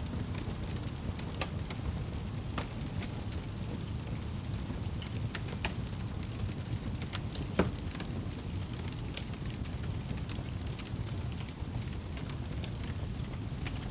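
Wood fire burning in a fireplace: a steady low rumble of flame with scattered sharp crackles and pops from the burning logs, one louder snap about halfway through.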